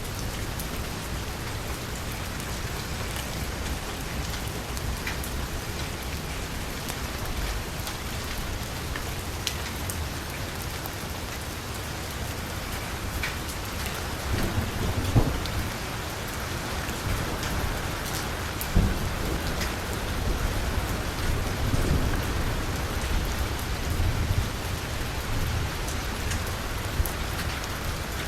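Heavy rain drumming steadily on a car's window and roof, with fine drop ticks over a constant low rumble. A few louder single hits stand out about halfway through.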